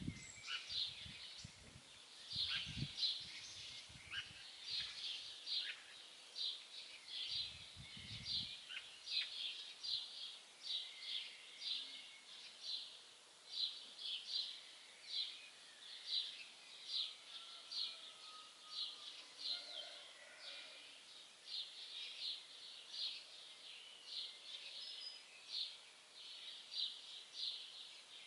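Songbird chirping in woodland: short high chirps repeating steadily, one or two a second. There are a few low rumbles in the first several seconds.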